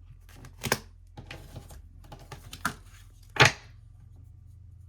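Tarot cards being handled: a soft rustle of cards, then three sharp card snaps, the last one the loudest.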